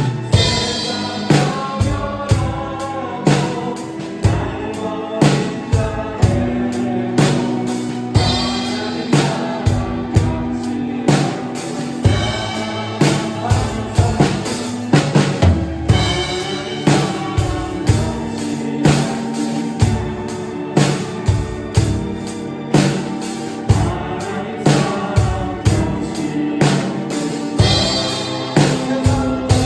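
A drum kit played along to a worship song backing track with singing: steady kick and snare backbeat with cymbal strikes over sustained keyboard and bass notes.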